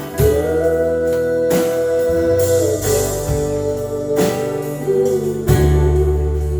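A live acoustic string band playing: strummed guitar over a steady bass, with a held lead line whose notes slide slightly in pitch.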